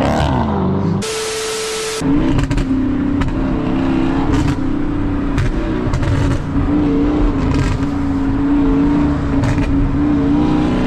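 Car engine running while driving: its note drops at the start, then holds at steady revs, and begins to rise again near the end. A one-second burst of hiss with a steady tone cuts in about a second in.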